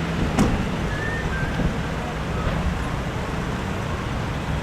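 Steady rumble of running vehicle engines and road noise, with wind on the microphone and one sharp click about half a second in.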